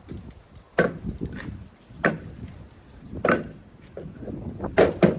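Pieces of 2x4 lumber knocking against wood: four sharp wooden knocks about a second and a quarter apart, the last a quick double knock.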